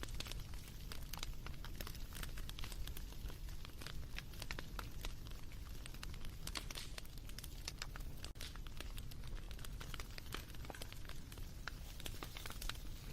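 Bonfire crackling: a dense run of irregular snaps and pops over a low, steady rumble of flames.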